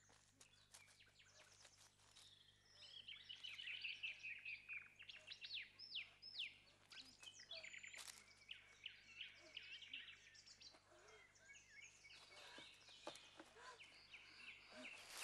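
Woodland birds singing: many quick chirps and short trills, busiest from about three seconds in.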